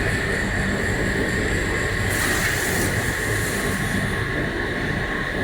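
EPE polyethylene foam sheet extrusion line running: a steady mechanical din with a constant high whine. About two seconds in, a hiss joins it for about two seconds.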